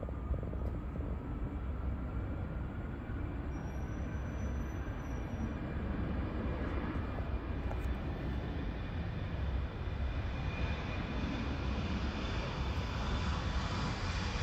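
Airplane engine noise, a steady rumble with faint whining tones, its high hiss building over the last few seconds as the aircraft draws nearer.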